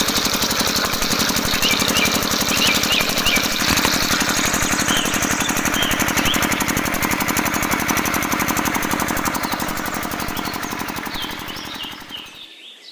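Small engine running steadily with a rapid, even knocking beat. The sound fades away over the last couple of seconds.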